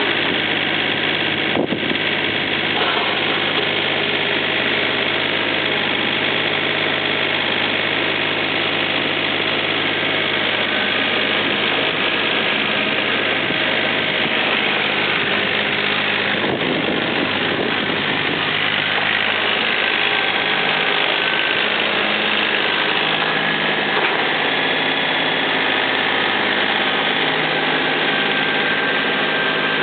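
John Deere 955 compact tractor's three-cylinder diesel engine idling steadily.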